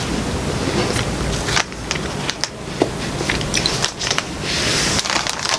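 Close-up eating noises: chewing a mouthful of non-dairy caramel ice cream with fudge chips and cookie pieces, with small crackles and scattered clicks.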